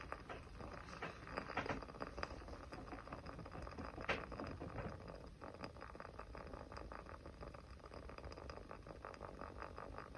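Small fire crackling: a fast, irregular run of small pops and ticks over a soft low rumble, with a sharper pop about four seconds in.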